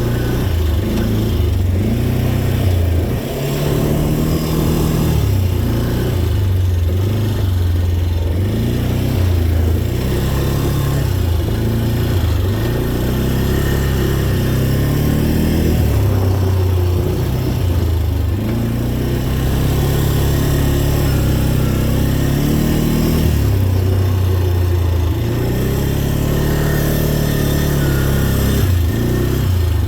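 Dirt bike engine revving up and down over and over as it is ridden, its pitch rising and falling every second or two with the throttle.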